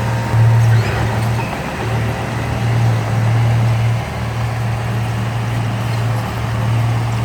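Diesel engine of heavy earthmoving machinery running under load: a steady low drone whose level rises and falls slightly.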